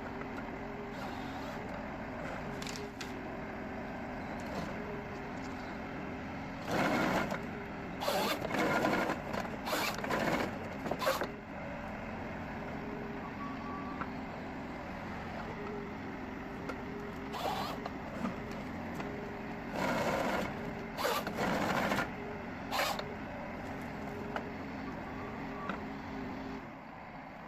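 Valtra N154E forestry tractor's diesel engine running steadily while its crane-mounted Nisula 325H harvester head works. Several loud, short noisy bursts come in two clusters, a few seconds apart, as the head grips and cuts the trees.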